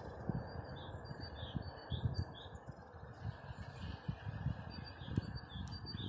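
Small songbirds chirping faintly in short, high, repeated notes, over a steady hiss and irregular low rumbling gusts.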